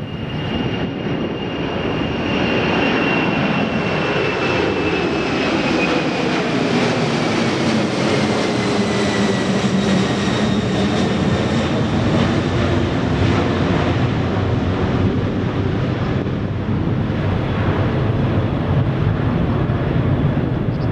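Jet airliner's engines at takeoff power passing along the runway: a loud, steady rush that builds over the first two seconds, with a high engine whine that slowly falls in pitch as the aircraft goes past.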